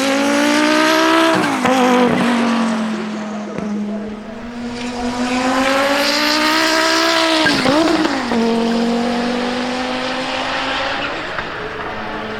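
1988 Audi 200 Quattro Trans-Am's turbocharged 2.1-litre five-cylinder engine under hard acceleration. The revs climb twice, and each climb ends in a sharp drop, with stretches at steady revs in between.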